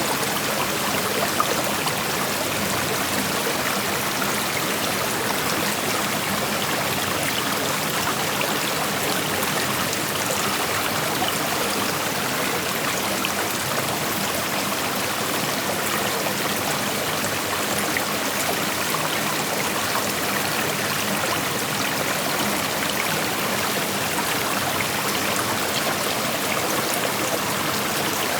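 Shallow creek flowing over rocks: steady rushing water with fine trickling and splashing.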